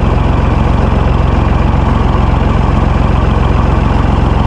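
Ford 3000 tractor's three-cylinder engine running steadily at low speed.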